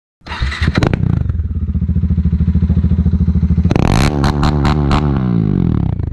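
A Bajaj Dominar 400's single-cylinder engine starts up with a few sharp clicks, settles into a steady pulsing idle, and is blipped to rise and fall in revs several times near the middle before dropping back to idle.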